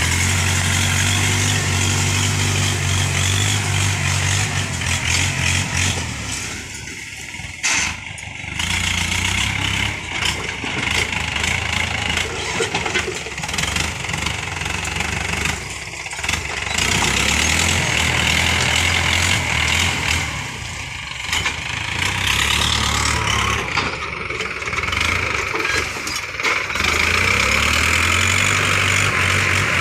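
Diesel tractor engine running under load, its note sagging and recovering a few times, with a steady higher hiss over it.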